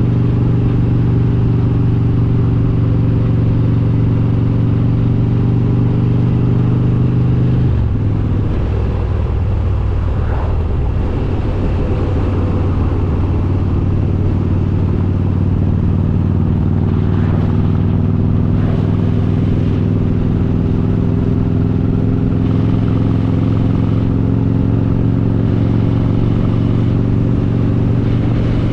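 Harley-Davidson Road King's S&S 95-cubic-inch V-twin with Super Stock heads running on the road. Its steady note drops suddenly about eight seconds in, then rises slowly through the rest as the bike pulls back up to speed.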